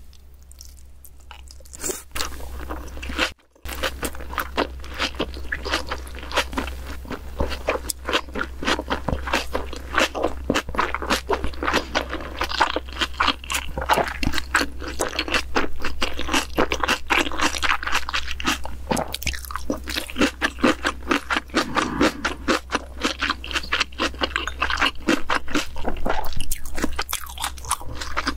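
Close-miked chewing of a mouthful of seaweed-wrapped rice ball topped with salmon: dense, fast wet crunching and clicking, with a steady low hum underneath.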